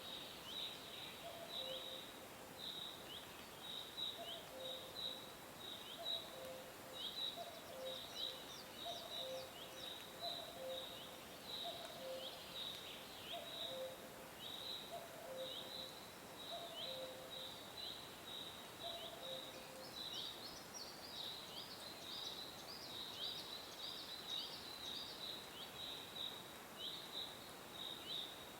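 Several birds chirping: a steady stream of short, high, falling chirps, with higher-pitched calls joining now and then. Under them a low two-note call repeats about once a second and stops about two-thirds of the way through.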